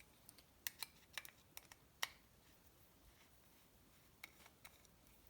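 Small engine parts being handled on a workbench: a scattering of light, sharp clicks and taps, most of them in the first two seconds and three more near the end.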